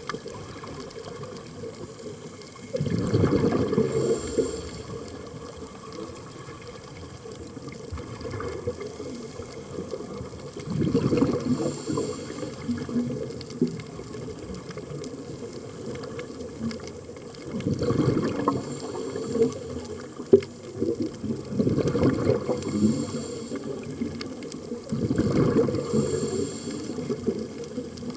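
Water surging and washing in repeated swells, a louder rush every four to seven seconds over a steady low sloshing.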